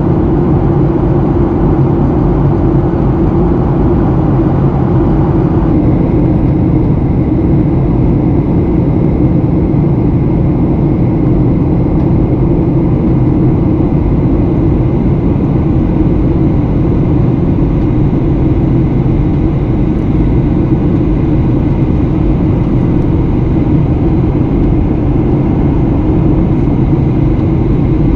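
Steady in-flight cabin noise of a Boeing 737 airliner: a low drone of engines and airflow. About six seconds in, the upper hiss drops and a faint steady high tone comes in.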